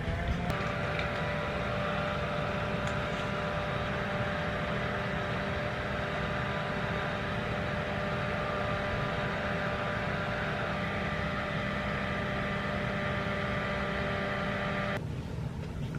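Small electric blower running steadily, its motor whining over a rush of air, drying freshly sealed false lashes. It switches on just after the start and cuts off suddenly about a second before the end.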